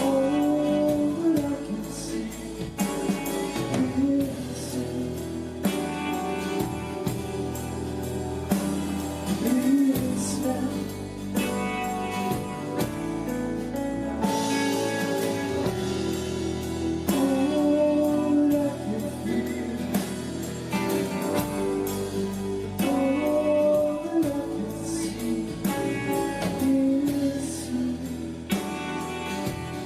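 Live rock band playing, with a bending lead melody line over drums and bass.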